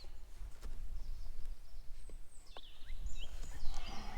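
Outdoor background noise with a steady low rumble, a few short high bird chirps past the middle, and a couple of light clicks.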